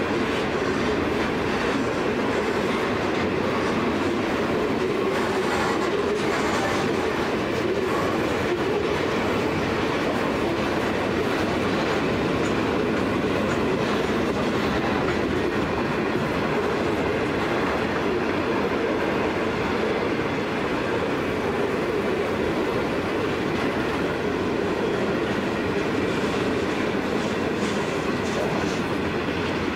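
Grain hopper wagons of a freight train rolling slowly past: a steady, unbroken noise of steel wheels running on the rails.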